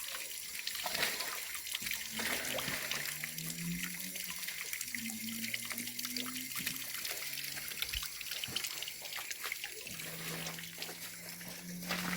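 Water trickling steadily, with a low drawn-out tone that shifts in pitch from about two to seven seconds in and comes back steadier near the end.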